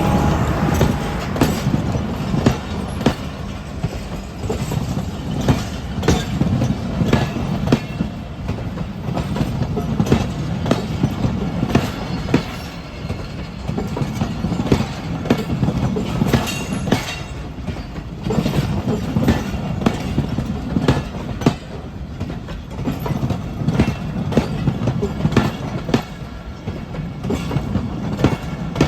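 Millat Express passenger train running along the track: a steady low rumble of the running gear with frequent sharp clacks and knocks of the wheels on the rails.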